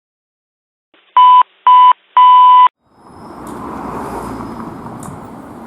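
Three loud electronic beeps on one steady tone, two short and a longer third, followed about three seconds in by a steady rumbling noise that rises and holds.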